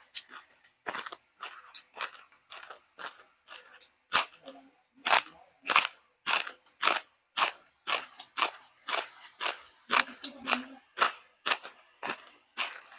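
Someone chewing crunchy food close to the microphone, a crisp crunch about twice a second.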